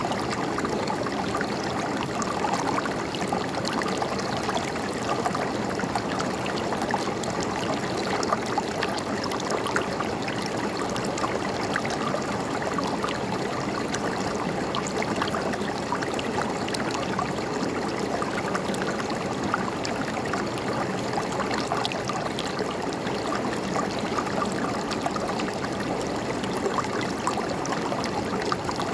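River water flowing steadily, an even rush with fine splashing and gurgling.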